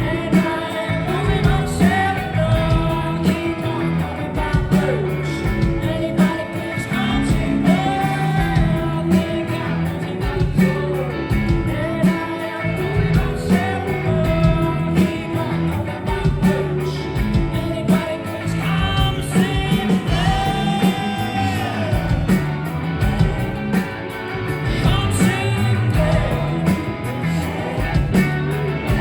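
Live rock band performing a song: a male singer over electric guitars, bass and drums, heard as a concert crowd would hear it in a club.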